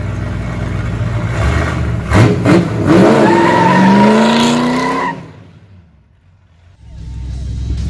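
Modified Ford 302 V8, with a four-barrel carburettor and a hotter cam, running and then blipped a couple of times before it accelerates hard, its pitch rising, as the rear tyre spins and squeals in a smoky burnout. The sound drops away suddenly about five seconds in, and the engine is heard again near the end.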